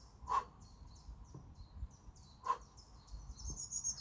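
Small birds chirping and singing in quick, high notes, with a denser run of song near the end. Two short, sharp sounds about two seconds apart stand out above them.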